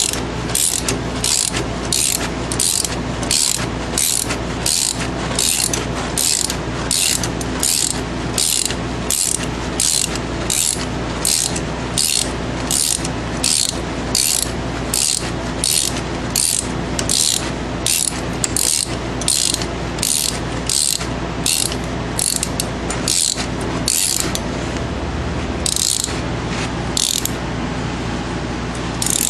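3/8-inch drive ratchet with a 7 mm Allen socket clicking in steady back-and-forth strokes, about one and a half to two a second, as a minivan's front brake caliper bolt is run out. The strokes pause briefly a few times near the end, over a steady low hum.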